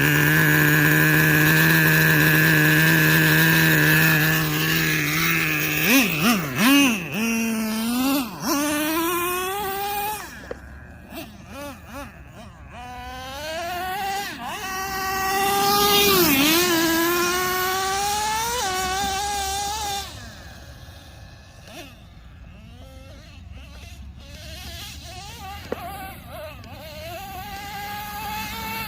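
Two-stroke nitro engine of a Traxxas Revo 3.3 RC monster truck, high-pitched and buzzing. It holds a steady tone for about six seconds, then is revved in short blips and rises in pitch as the truck accelerates away. It fades, comes back close with a dip in pitch as it passes around sixteen seconds, fades again and grows louder near the end.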